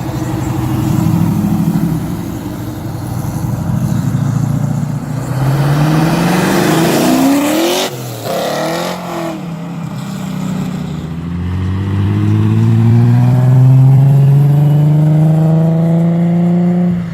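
Car engines revving and accelerating. One car speeds past close by about eight seconds in, its engine pitch climbing and then dropping as it goes by. Then another engine winds up steadily in pitch through a long pull until just before the end.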